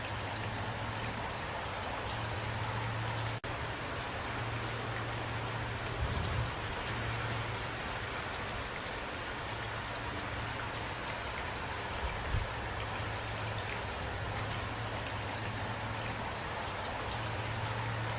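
Steady rainfall: an even hiss of rain with scattered sharper drop ticks and a constant low rumble underneath. Two short low thuds come about six and twelve seconds in, and the sound breaks off for a split second a little over three seconds in.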